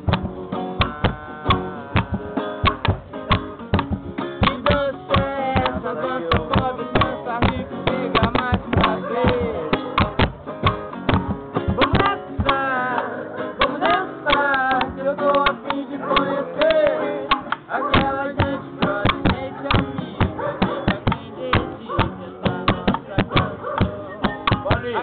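Acoustic guitar strummed in a brisk, steady rhythm, the dense strokes running on without a break.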